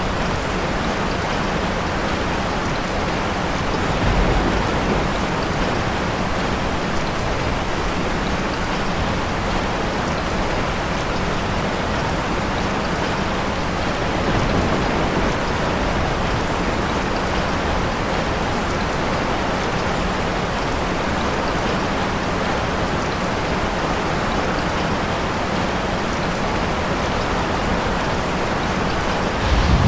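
Steady rain falling, with two brief low rumbles of distant thunder about four and fourteen seconds in.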